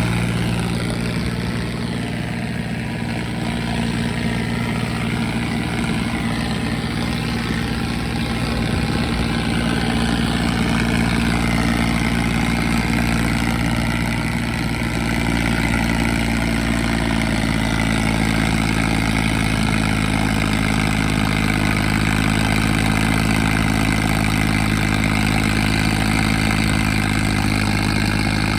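John Deere 5039 tractor's diesel engine running steadily, likely driving a straw reaper.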